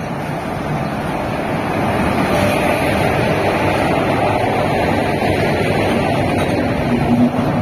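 LHB passenger coaches of an arriving express rolling past at close range: a steady rushing rumble of wheels on rails that grows louder about two seconds in.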